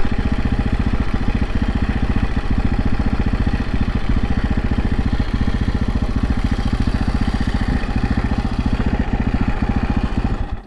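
Husaberg FS 550 supermoto's single-cylinder engine idling with a steady, fast, even pulse, switched off right at the end.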